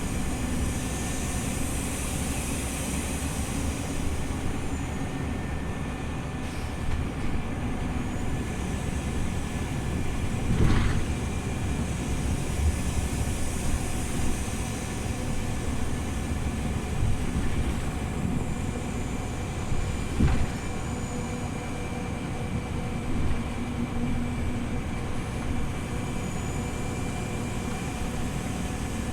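Scania OmniLink city bus driving, heard from inside the cabin: steady engine and road rumble with rattles. Two sharp knocks or jolts come about eleven and twenty seconds in.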